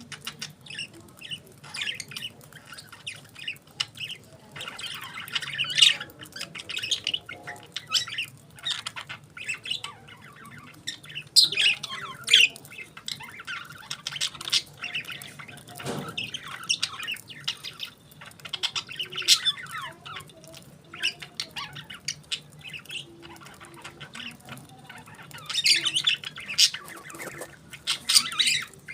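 Pet budgies (budgerigars) chirping and squawking in irregular bursts of quick, high calls, with wing flutters among them.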